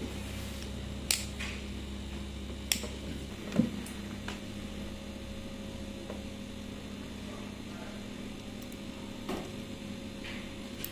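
A steady electrical hum with a handful of sharp clicks spread a few seconds apart, and a duller knock about three and a half seconds in.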